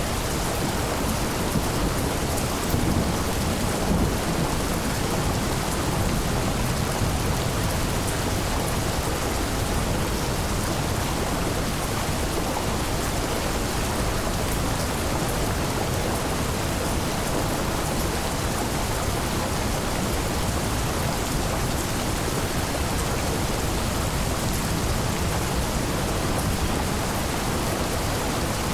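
Steady heavy rain falling, with a low rumble of thunder a few seconds in.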